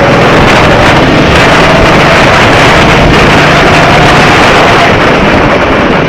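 Go-kart engine running at speed under heavy wind noise on the microphone; the engine note rises a little in the middle and eases back near the end.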